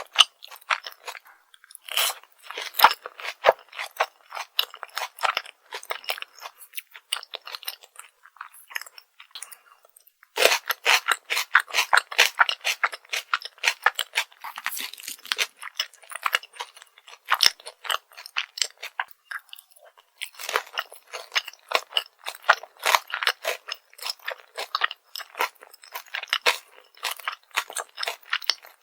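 Close-miked chewing of crunchy fried food: rapid crackling crunches in three bouts, with two brief pauses between them.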